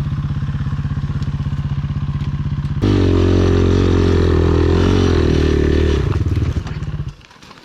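Enduro motorcycle engine running steadily, then revved hard about three seconds in and held for about three seconds before falling back and dying away near the end.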